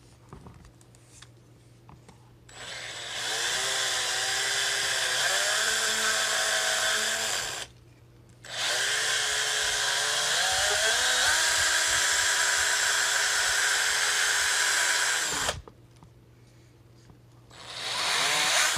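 Electric drill running in three runs of several seconds with short pauses between, spinning an engine valve against wet 800-grit sandpaper to polish off carbon deposits. Its motor pitch dips and recovers as it is pressed into the work.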